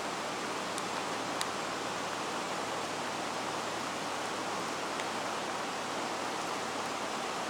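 Steady rushing of floodwater from a small creek running over its banks, an even unbroken roar of water, with a couple of faint ticks.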